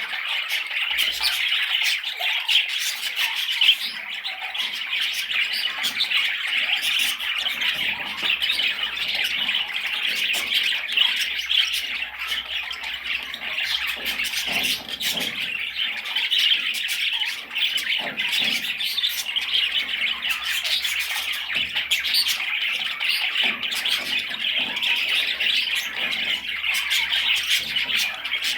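Budgerigar chatter: a continuous run of rapid chirps, squawks and clicks with no break.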